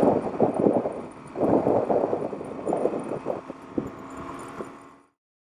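Motorcycle engine running, with wind gusting on the microphone; the sound cuts off suddenly about five seconds in.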